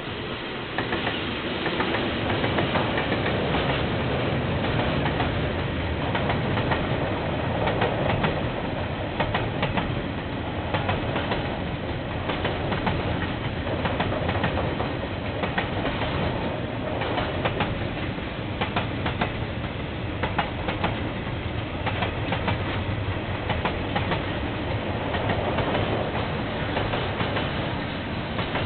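KiwiRail train rolling past, heard through a security camera's microphone, with rail wheels clicking and clattering over the track. It grows louder about a second in and stays loud.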